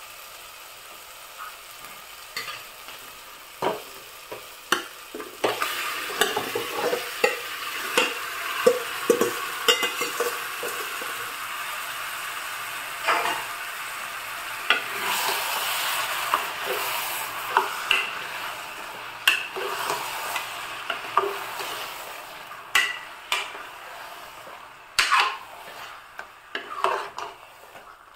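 Yogurt-and-turmeric-marinated chicken pieces going into hot fried onion-tomato masala in an aluminium pressure cooker and sizzling. A steady frying hiss swells through the middle. Knocks and scrapes of a metal ladle against the pot come throughout as the chicken is stirred in, and come thickest near the end.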